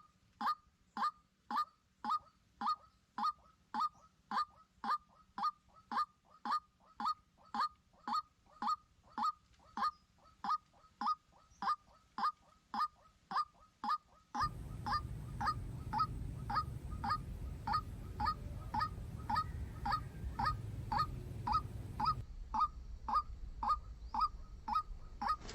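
Male white-breasted waterhen calling: a steady, unbroken run of short, falling notes, nearly two a second. A low rumble of background noise joins a little past halfway and fades again near the end.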